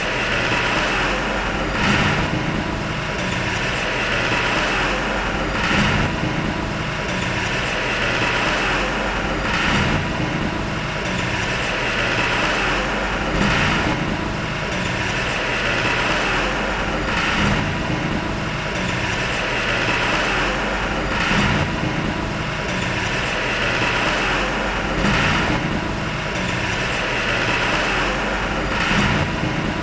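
Heavy diesel engine of earthmoving machinery running steadily, with a short sharper sound repeating evenly about every four seconds.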